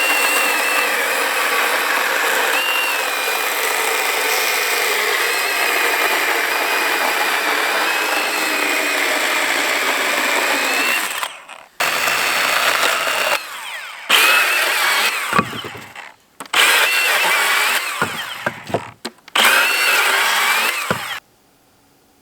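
Milwaukee Hatchet cordless pruning saw, a small battery chainsaw, running and cutting dead hardwood: one long run of about eleven seconds, then three shorter runs with brief stops between them, falling silent about a second before the end.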